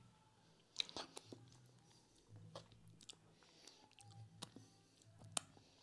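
Faint chewing of a mouthful of lasagna: soft, wet mouth clicks and smacks scattered through.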